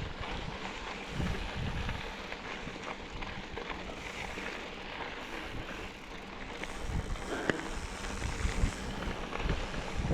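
Wind buffeting the microphone while travelling, a noisy rush with low rumbling gusts that grows stronger in the second half.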